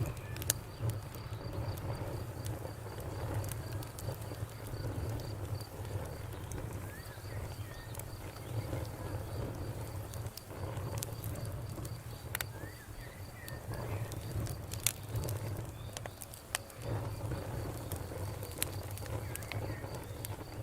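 Campfire crackling, with sharp pops scattered irregularly over a low steady rumble. A faint, steady high chirring of insects runs behind it.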